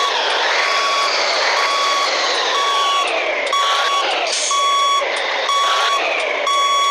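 Reversing alarm beeping about once a second over a Scania 113H truck's straight-piped engine, which rises and falls in pitch as the truck manoeuvres.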